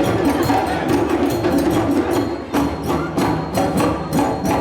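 Live African parade drumming: an ensemble of hand drums and percussion playing a fast, steady rhythm of sharp strikes.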